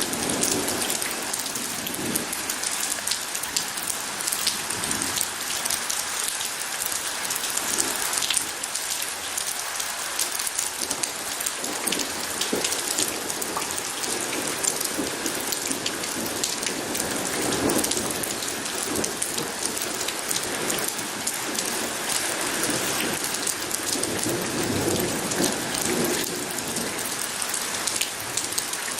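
Steady rain falling on a hard surface, a dense patter of individual drops, with a few soft low rumbles of distant thunder underneath.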